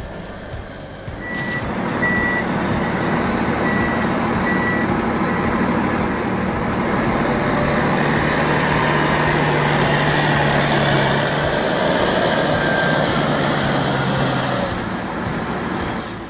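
Heavy truck engine running loud and hard, with a reversing alarm beeping several times in the first few seconds.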